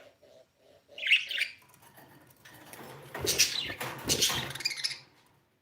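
Pet budgerigar chirping, with a short high chirp about a second in. This is followed by a louder, scratchy, noisy stretch of about two seconds that fades out near the end.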